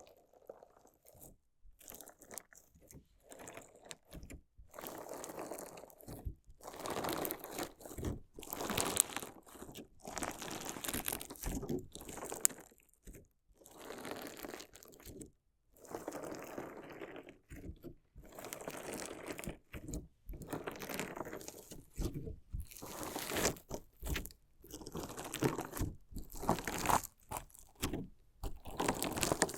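Crunchy slime mixed with decorative stones being worked, making gritty crunching and squishing in irregular bursts with short pauses between them.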